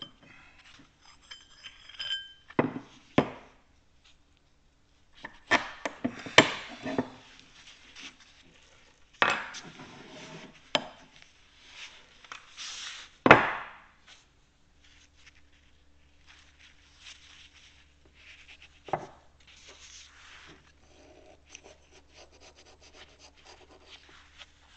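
Steel arbor press parts being handled and set down on a workbench: scattered knocks and clinks, one ringing metal clink about two seconds in, and the loudest knock about thirteen seconds in. After that, quieter light rubbing and scraping handling noise.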